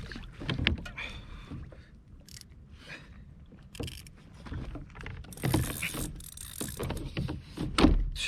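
Knocks, rattles and splashes as a big ono (wahoo) is landed on a fishing kayak, with a burst of splashing water about halfway through and a loud thump near the end.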